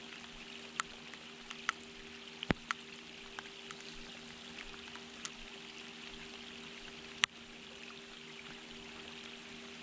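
Steady rain hiss with scattered sharp taps of single raindrops, a few louder ones in the first three seconds and the loudest about seven seconds in.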